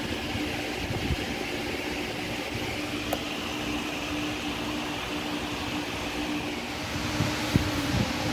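Steady mechanical hum of a running fan with a held low tone, and a few faint knocks near the end.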